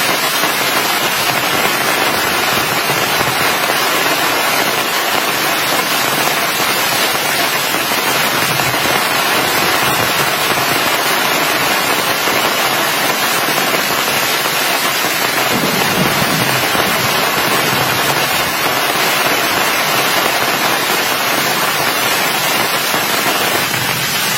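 Heavy rain falling steadily, a loud, dense, even hiss of drops.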